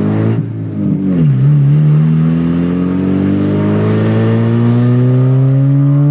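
Mazda 323 with no mufflers accelerating: its engine note falls briefly about a second in, then rises steadily and evenly for the rest of the time.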